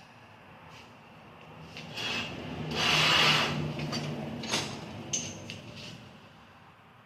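Rubbing and scraping as engine parts are handled, swelling for about two seconds in the middle, followed by a few light clicks.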